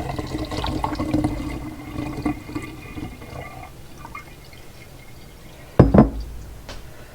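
Goat milk poured from a jar through a strainer into a glass jar, liquid splashing for the first few seconds and then trailing off. Two sharp knocks come close together near the end, which is glassware or the strainer set down.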